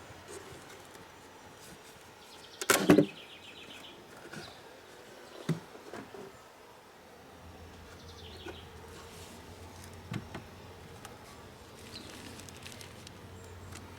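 Honey bees buzzing around a hive, with a few knocks from wooden hive parts being handled; the loudest is a clatter about three seconds in.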